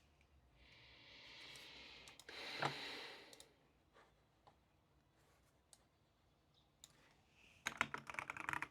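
Desk handling noises: a soft rustling scrape about a second in, then a dense burst of rapid sharp clicks near the end.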